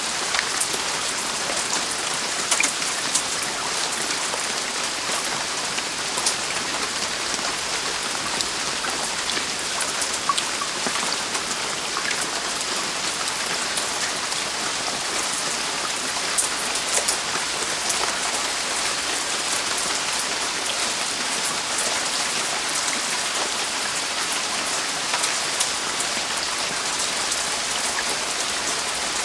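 Heavy rain falling steadily on a roof, a dense, even hiss with many sharp individual drop hits pattering through it.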